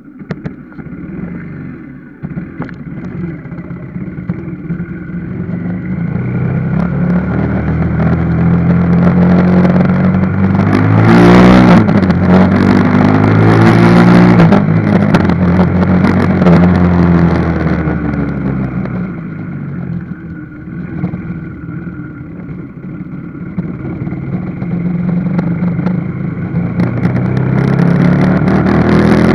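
Motorcycle engine running on a ride, its note rising and falling with speed; it is loudest about ten to fifteen seconds in, eases off around twenty seconds, and builds again near the end.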